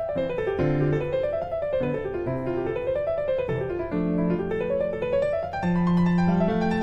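Background piano music: quick rising and falling runs of notes over held bass notes.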